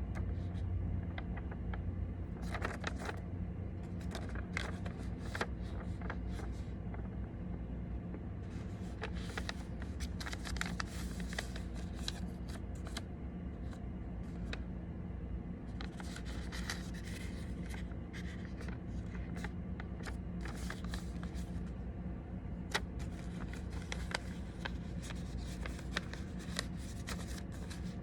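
A sheet of paper being folded and creased by hand: irregular crinkles, rustles and scrapes coming in clusters, over a steady low hum.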